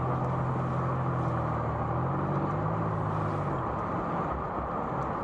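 Car cabin noise while driving: a steady road and tyre rumble with an engine hum under it. The hum shifts in pitch about two seconds in and fades out a little later, leaving the road rumble.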